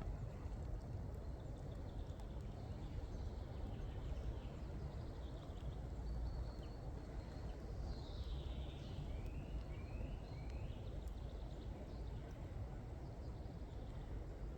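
Outdoor ambience: a steady low rumble, with a small bird calling faintly in the middle, a few thin chirps followed by three short rising notes.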